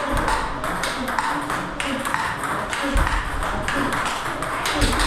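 Table tennis balls struck by paddles and bouncing on the table: a quick, irregular run of sharp clicks.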